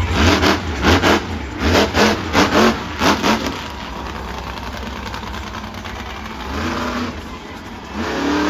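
Monster truck engine revving hard in a rapid string of throttle blips, then running lower with a couple of rising revs near the end.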